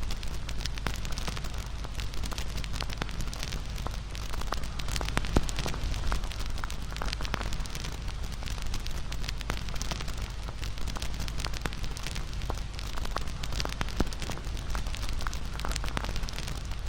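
Wood fire crackling steadily with dense irregular snaps and pops over a low rumble; one sharper pop stands out about five seconds in.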